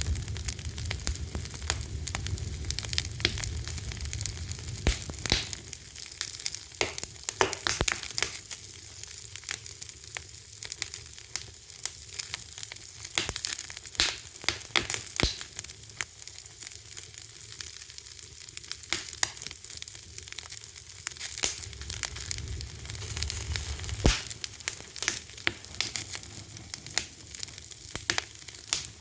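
Wood fire crackling: irregular sharp pops and snaps over a steady hiss, with a low rumble that swells and fades at times.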